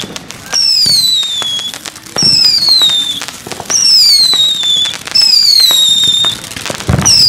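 Whistling fireworks going off one after another: five loud whistles about a second and a half apart, each sliding down in pitch over about a second. Short pops and crackle sound between them.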